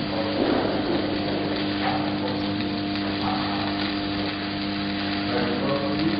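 Shielded metal arc (stick) welding: the electrode arc crackles and sizzles steadily over the welding machine's hum.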